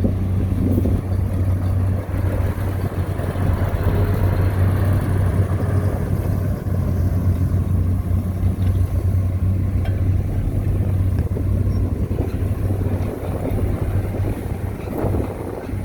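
Heavy diesel engine of earth-moving machinery running steadily with a deep, even hum.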